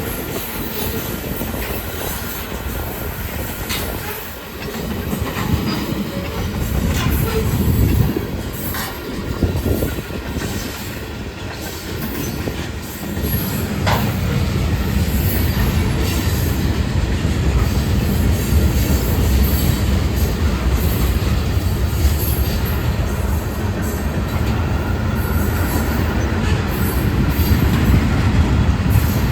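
Union Pacific mixed freight train's cars rolling past, their steel wheels clattering over the rails with scattered sharp clicks. It gets louder about halfway through.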